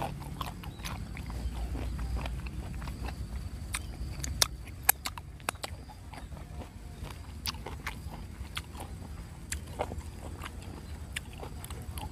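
Close-miked chewing of crunchy unripe fruit coated in rujak sambal: irregular crisp crunches and clicks from the mouth.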